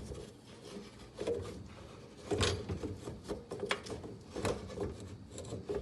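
Irregular knocks and clunks as a garbage disposal unit is handled and fitted back into place under the sink. The loudest knock comes about two and a half seconds in, with others following.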